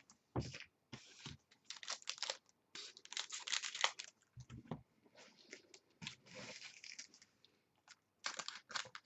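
Trading-card packs and their wrappers being torn open and the cards handled: irregular crinkling, tearing and rustling with a few dull bumps, about half a second in and again around four and a half seconds in.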